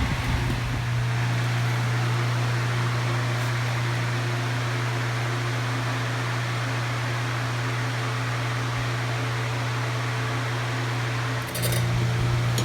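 Electric fan running steadily: a constant low hum over an airy hiss, with a brief click and a dip in level near the end before it carries on.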